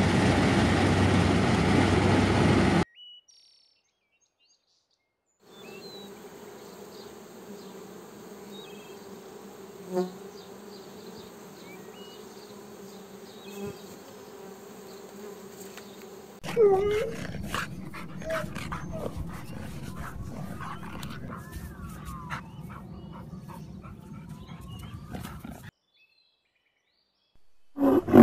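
New Holland combine harvester running loudly for the first few seconds, then cutting off. After a short silence comes a steady hum of honeybees swarming at a hive entrance. A different clip follows, full of sharp clicks and a few sliding calls.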